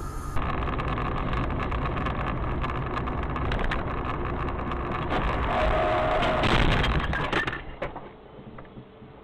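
Road and engine noise of a car on the move, growing louder to a peak about six to seven seconds in, with a brief steady tone and a clatter of clicks. It then falls away sharply to a quieter hum.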